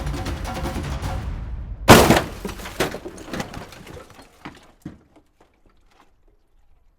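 Background music fades out, then a vehicle collision: one loud crash about two seconds in, followed by several smaller clattering hits of breaking glass and debris that die away over the next few seconds.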